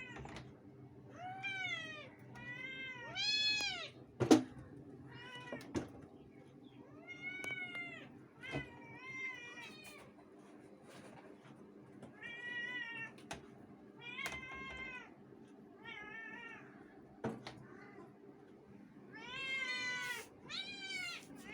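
Domestic cats meowing over and over, a call every second or two, each meow rising and then falling in pitch, with a short lull about three-quarters of the way through. A sharp knock about four seconds in is the loudest single sound.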